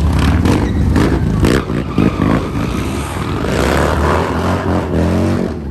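Motocross bike engine revving, with a run of sharp clatter in the first couple of seconds; the engine note falls away near the end.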